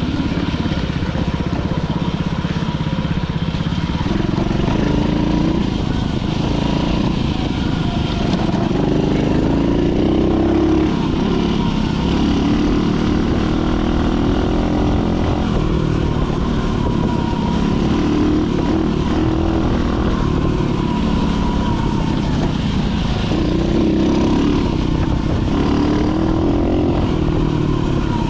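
Dirt bike engine running under way on a trail, its revs rising and falling repeatedly as the throttle is worked.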